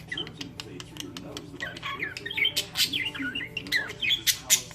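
Pet budgerigars chattering: fast, wavering chirps mixed with short harsh squawks, the loudest squawks coming in the second half.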